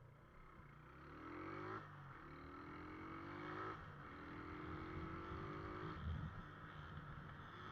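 Motorcycle engine accelerating hard through the gears: the engine note rises three times, dropping briefly at each upshift, over a steady low rumble.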